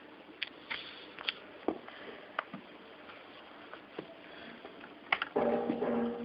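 Scattered light clicks and taps from handling a small tablet. Then, a little over five seconds in, a steady sound with several held tones starts abruptly.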